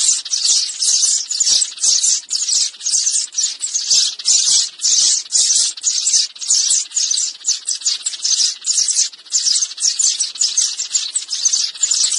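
Sparrow chirping in a rapid, unbroken series of short, high-pitched chirps, about three a second.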